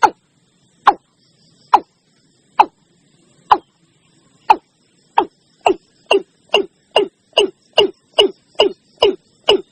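Watercock (ayam-ayaman) calling: a series of short notes, each dropping steeply in pitch, starting about a second apart and speeding up to two or three a second near the end.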